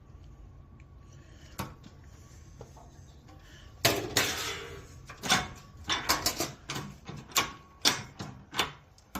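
Sheet metal clanking on a hand brake as its top edge is folded over into a hem: a single click, then a loud ringing clank about four seconds in, followed by a run of sharp metallic clanks about two a second.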